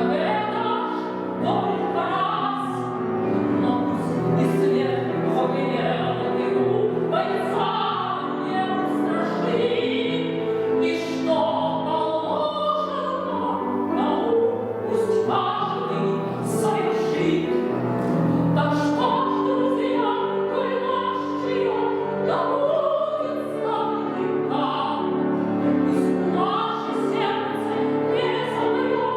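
A classically trained female voice sings a Soviet wartime waltz with grand piano accompaniment, holding long wavering notes over steady piano chords.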